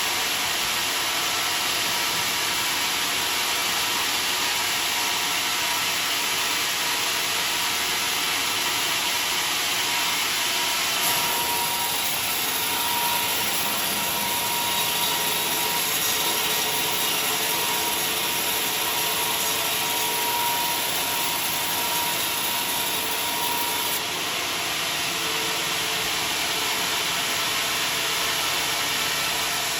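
Sawmill saw running steadily. From about a third of the way in until a little past two thirds, a brighter, whining cutting sound rises over it as the blade runs through the log.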